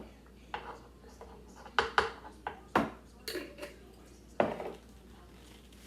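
Kitchen utensils clinking and clattering, about eight sharp knocks spread over four seconds, as someone rummages for a knife sharpener.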